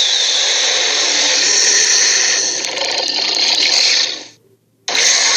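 Cartoon tyrannosaur's screech sound effect: a long, loud, harsh rasping cry that lasts about four seconds, then fades out. After a brief silence a second screech starts abruptly near the end.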